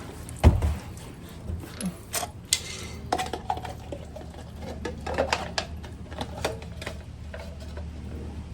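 Hard objects being handled and set down: a sharp thump about half a second in, then scattered clinks and knocks through the rest.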